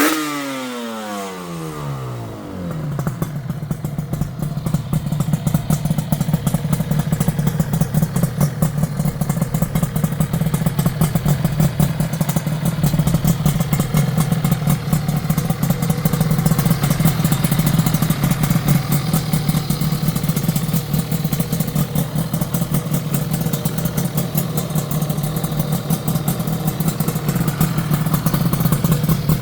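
Yamaha RZ250's two-stroke parallel twin, breathing through TZ-style expansion chambers, with its revs falling back from a throttle blip in the first couple of seconds. It then settles into a steady, crackly two-stroke idle.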